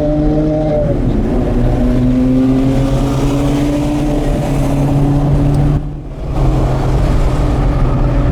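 Porsche Carrera GT's V10 with an FVD exhaust pulling hard through the gears, its pitch climbing steadily. There is an upshift about a second in. Near six seconds the sound dips briefly at a second shift, then the engine pulls again.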